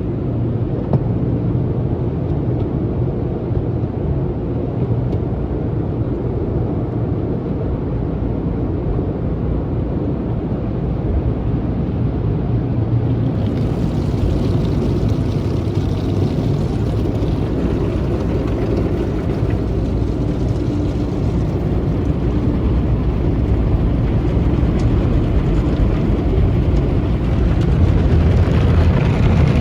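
Automatic tunnel car wash heard from inside a car riding through it: a steady low rumble of the wash equipment and water on the car. About halfway a brighter hiss joins, and the sound grows a little louder toward the end.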